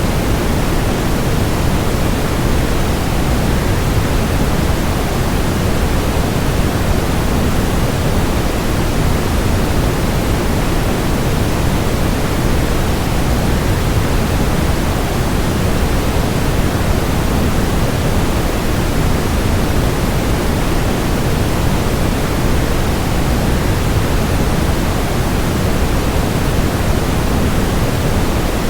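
Waterfall rushing: a constant, unchanging wash of falling water, full in the low end and thinning toward the highs.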